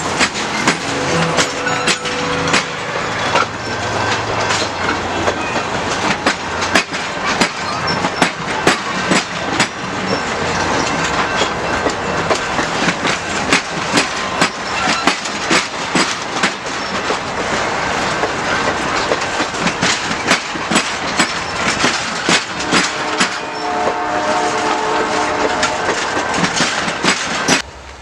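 Canadian Pacific Holiday Train rolling past close by: a steady rumble of wheels on rail with many sharp clicks as the wheels cross rail joints. Near the end a horn chord sounds for a few seconds, and the sound cuts off suddenly.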